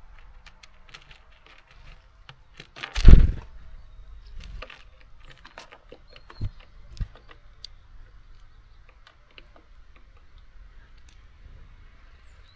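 Small birds pecking and hopping on a seed feeder: irregular light taps and clicks of beaks and claws on the feeder and seeds, with one louder thump about three seconds in and two smaller knocks a few seconds later.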